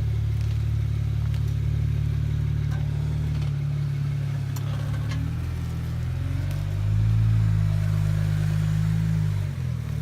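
Car engine running with a deep, steady drone, its pitch shifting a few times and growing louder for a couple of seconds near the end.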